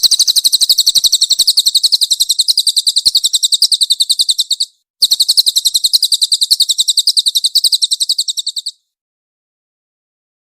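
Cililin bird singing a rapid, tightly packed rattle of high chirps, about a dozen a second. It breaks off briefly near the middle, starts again, and stops abruptly about three-quarters of the way through.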